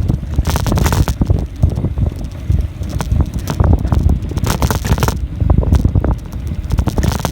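Wind buffeting the microphone of a camera on a moving bicycle, with irregular crackling and knocking from the ride over the path.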